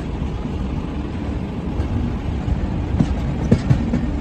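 Passenger train rolling slowly out of the station, heard from on board: a steady low rumble of the coach running, with a few sharp clacks of wheels passing over rail joints or points near the end.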